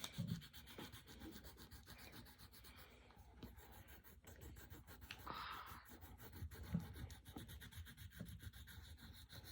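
Faint scratching and rubbing of a coloured pencil on paper as a drawing is coloured in, with a few soft taps.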